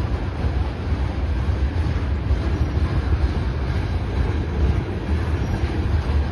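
Freight train of tank cars rolling past: a steady low rumble of steel wheels on the rails.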